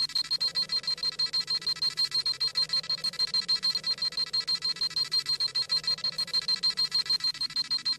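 Dragon Ball Z scouter sound effect: a high electronic beeping, rapid and evenly pulsed at about eight beeps a second, the scouter reading a power level.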